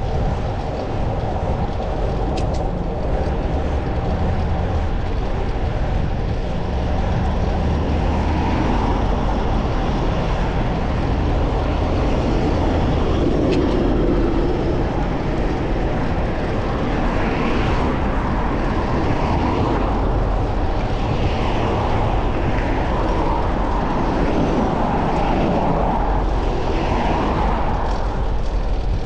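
Steady wind and road rumble from riding a bicycle, with traffic sounds that swell and fade several times from about a third of the way in.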